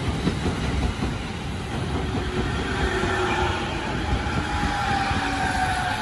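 JR Musashino Line electric commuter train rolling slowly through the station: steady wheel-and-rail rumble with light clacking over the rail joints. A high electric whine slowly falls in pitch from about three seconds in.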